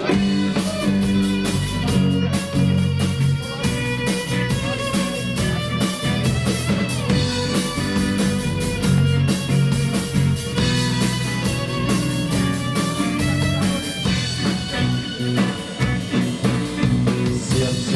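Live rock band playing an instrumental introduction: electric guitar over bass and drum kit, with sustained chords and a steady beat.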